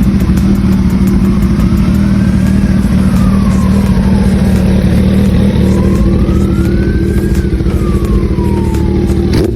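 Kawasaki ZZR1400's inline-four engine running steadily at a constant pitch through a Brock's aftermarket exhaust, with a fainter whine that rises and falls twice.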